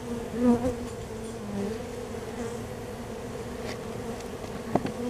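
A mass of honey bees buzzing in a steady drone as their colony is moved into a nuc box, with one bee swelling louder past the microphone about half a second in. A short knock near the end.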